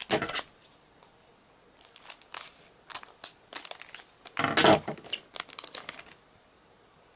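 Pokémon card booster pack wrapper being torn open and crinkled: a run of short crackling rustles, loudest about four and a half seconds in.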